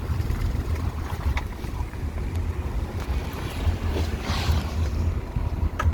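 Wind buffeting the microphone in a low, uneven rumble, over the steady noise of a moving vehicle.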